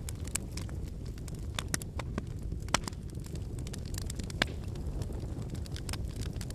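Wood campfire burning with a steady low rumble of flame and irregular crackles and pops of the burning logs, two sharper pops about a third and two thirds of the way through.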